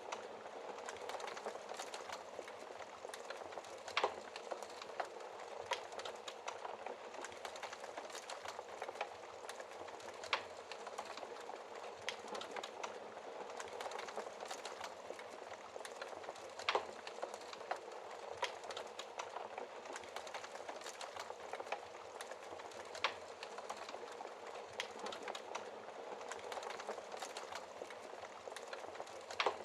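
Wood fire crackling in a fireplace: a dense, steady crackle with a sharper, louder pop about every six seconds.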